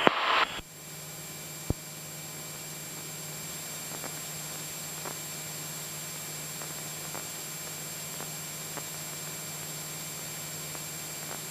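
Steady hiss with a low, even hum underneath, as heard on the cockpit intercom audio of a Cessna 172SP in flight, with a single sharp click about two seconds in.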